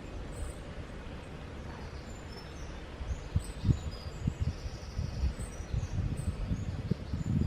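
Small birds chirping and calling faintly, with a brief buzzy trill about five seconds in, over irregular low thuds and rumble.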